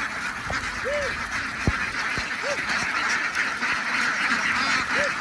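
A large flock of domestic ducks quacking in a dense, continuous chorus, with a few sharp knocks, the loudest about one and a half seconds in.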